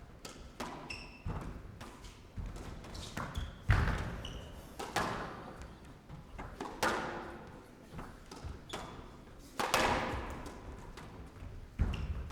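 Squash ball being struck and hitting the walls of a glass court, a series of sharp echoing thuds about every one to two seconds, with a few short squeaks in between.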